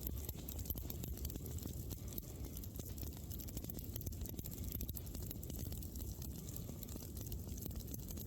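Wood campfire burning: a steady low rush from the flames with many small, quick crackles and pops throughout.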